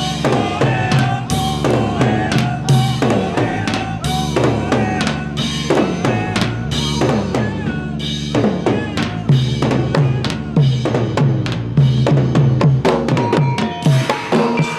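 Drum-heavy music: a dense run of drum strikes over a steady beat, with pitched notes sounding alongside.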